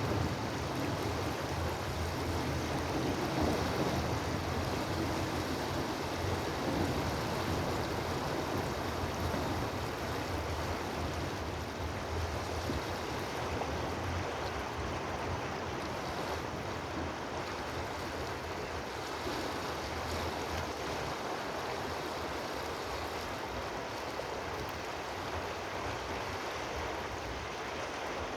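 Steady rushing water, with a low rumble that eases off about two-thirds of the way through.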